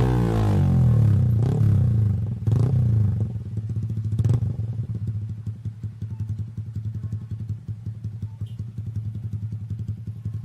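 Yamaha R15 V3's single-cylinder engine through an aftermarket exhaust, coming down from a rev and given a few short throttle blips in the first few seconds, then settling to a steady idle.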